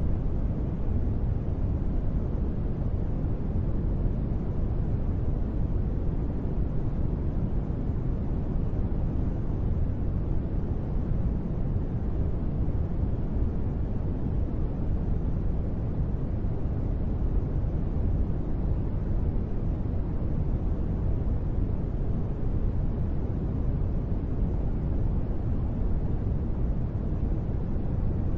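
Steady, even sleep-sound noise, billed as gentle rain white noise, with no separate drops or patter. Its weight sits low, so it comes across as a deep, muffled rumble rather than a bright hiss.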